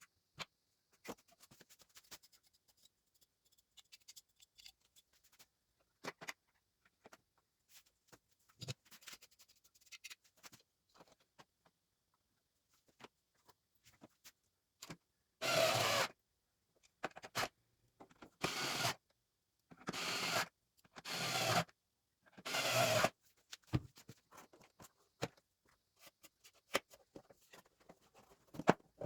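Scattered light clicks and rubbing from plastic keyboard parts being handled on a bench. About halfway through come five short, louder bursts of tool noise, each under a second.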